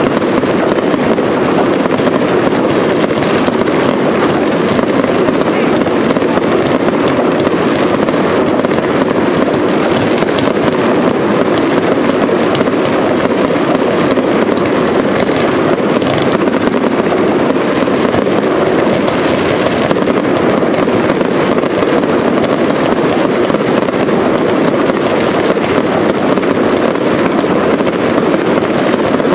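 Aerial fireworks display: a dense, unbroken barrage of shell bursts and crackling, loud and even throughout.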